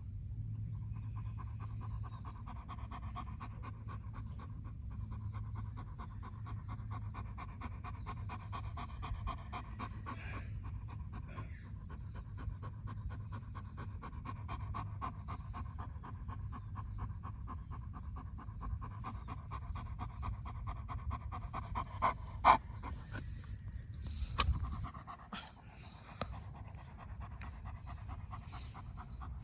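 A dog panting steadily in quick, even breaths. A single sharp click about two-thirds of the way through is the loudest moment.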